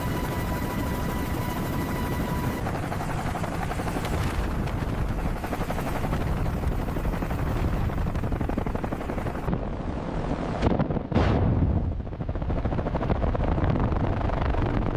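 Helicopter rotor and engine noise, a steady rapid chopping. A steady high tone sounds over it for the first two or three seconds, and there are a couple of louder surges about eleven seconds in.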